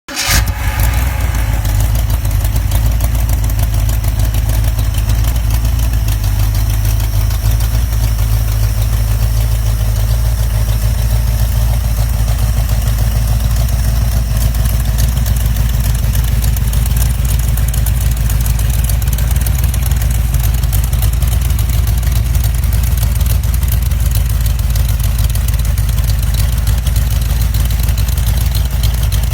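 1973 AMC AMX V8 engine running steadily at idle with a deep, even note.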